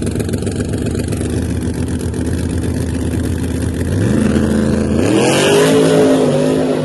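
Drag car engine running at a loud, lumpy idle, then revved up about four seconds in. A second, higher rise in pitch follows about a second later and holds with a hissing edge.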